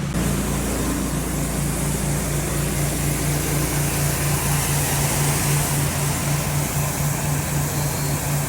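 Truck engine running steadily with road noise, a low hum that throbs about three times a second.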